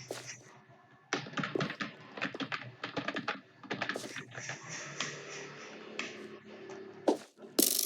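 Typing on a computer keyboard: quick, irregular key clicks that start about a second in, with a louder flurry near the end.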